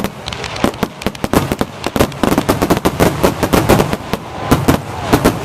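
Aerial fireworks going off in a rapid, dense barrage: a string of sharp shell-burst bangs and crackling reports, several a second, with a loud cluster about two to four seconds in.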